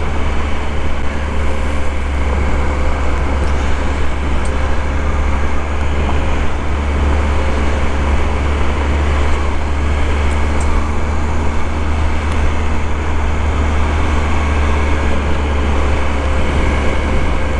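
Motorcycle running steadily while riding, a constant low engine drone with an even rushing noise over it.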